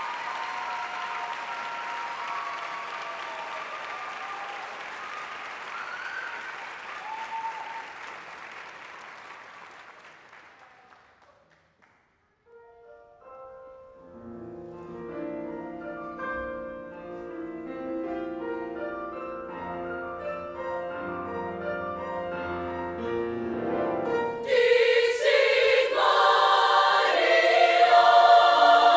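Audience applause fading away, then after a moment of silence an instrumental introduction of held chords builds up. Near the end a choir comes in loudly, singing.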